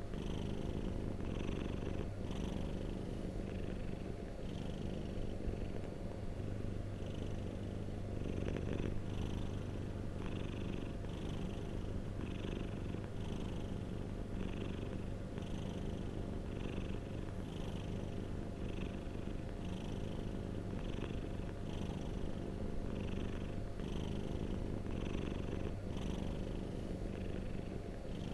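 A domestic cat purring steadily in a close, continuous low rumble, with a faint higher rasp coming back about once a second.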